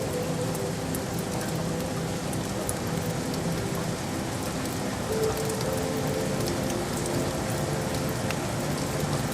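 Steady rain falling on city surfaces: a dense, even hiss with scattered ticks of individual drops.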